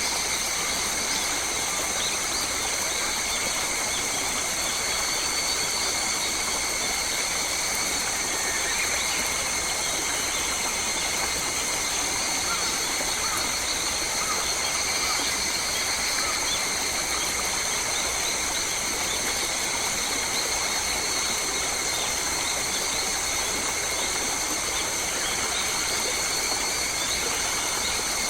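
Forest ambience: a steady, high-pitched drone of an insect chorus, typical of cicadas, over an even background hiss, with a few faint bird chirps.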